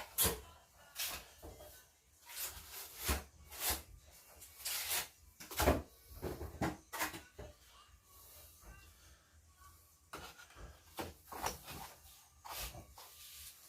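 Irregular scrapes and light knocks of hand masonry work, refractory bricks being handled and fitted with refractory mortar, in short separate strokes with a quieter stretch around the middle.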